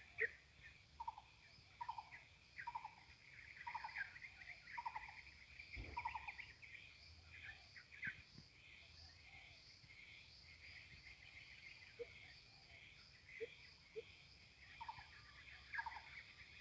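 Coucal calling a series of low hooting notes, about one a second, for the first few seconds and again near the end, over steady higher chirping from other birds.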